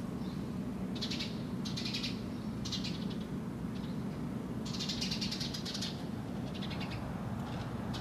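Birds giving harsh, rasping scolding calls in short repeated bursts, one longer burst about halfway through. These are alarm calls at a cat lying near their nest.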